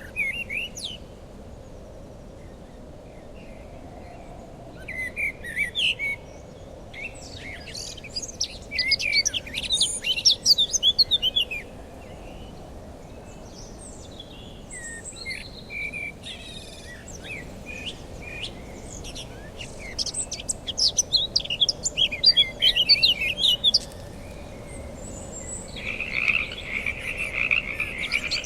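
Birds chirping in repeated bursts of quick, high calls over a steady background hiss. Near the end a continuous high trill starts up and holds.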